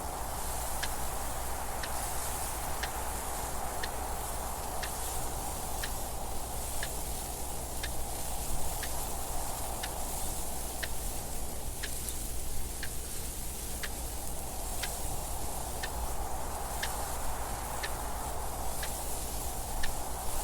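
A clock ticking steadily over soft wind noise that slowly swells and fades.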